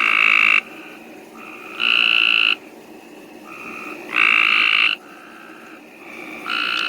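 Cope's gray tree frogs calling: short, harsh trills about every two seconds from a nearby frog, with fainter calls from other frogs in between.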